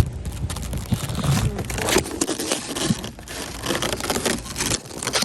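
Plastic shrink-wrap crinkling and crackling, with scraping, as a wrapped case of bottled water is tugged and wrestled off a store shelf. A sharp knock comes right at the start.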